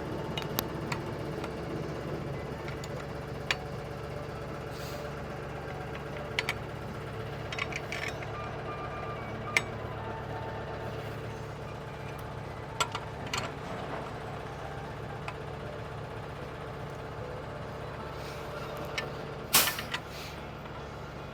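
A steady machine hum, like an engine or compressor running, under scattered metallic clinks and knocks of hand work on the truck's wheel end, with one louder clank near the end.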